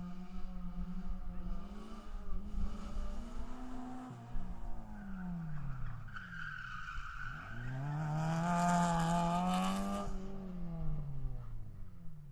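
Car engine revving up and down in long sweeps: the pitch falls away about four to seven seconds in, climbs again to its loudest around nine seconds in, then falls off near the end.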